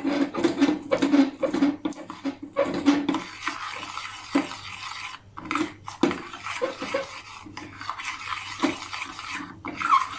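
A spoon stirring and scraping sugar around a pan as it melts for caramel, in a run of irregular scraping strokes.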